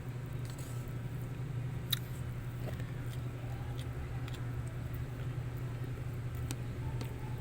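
A steady low hum, with scattered small clicks and taps, the sharpest about two seconds in.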